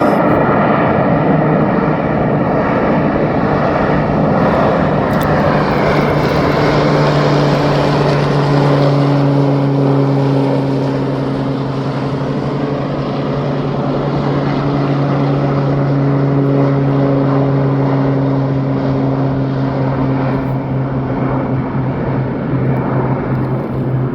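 Propeller engines of low-flying firefighting water-scooper airplanes, a loud steady drone with a strong whooshing noise. It eases off slightly after about ten seconds.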